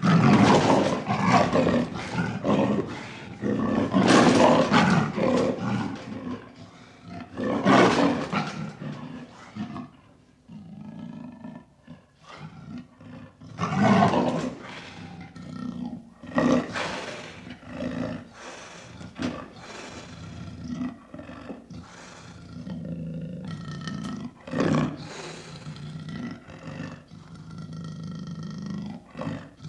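Leopard roaring and growling: loud, harsh calls in the first half, then lower, quieter growls.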